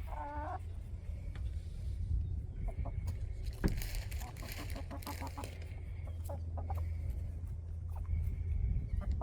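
Backyard chickens clucking, with a short wavering call at the very start, over a steady low rumble.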